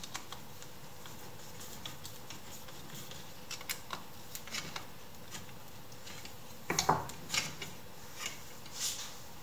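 Scattered light clicks, taps and rubbing of small hard objects being handled, with a brief cluster of louder knocks about seven seconds in, over a faint steady hum.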